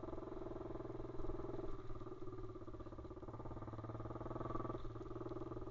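Pit bike's single-cylinder engine running while riding, easing off about two seconds in and then slowly building revs again.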